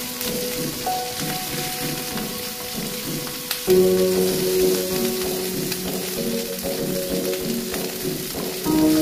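Shrimp sizzling in garlic butter in a frying pan while a wooden spatula stirs and scrapes through them. Background music of held chords plays over it, changing about a second in, near four seconds and near the end.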